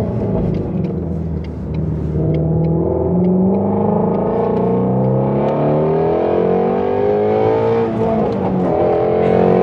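Shelby Mustang GT350R's 5.2-litre flat-plane-crank V8 accelerating hard, its pitch climbing through the revs and dropping back at gear changes a couple of times before climbing again.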